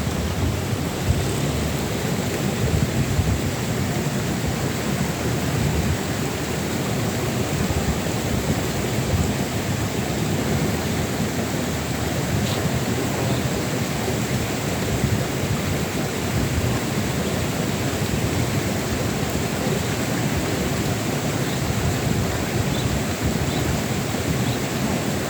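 Wind buffeting the microphone: a steady low rushing noise.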